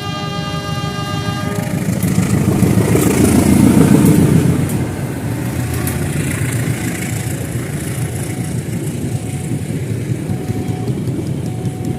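A diesel train's horn sounds and cuts off about two seconds in. The train then passes close by, its rumble swelling to a peak around four seconds in and holding steady as the long train keeps rolling past.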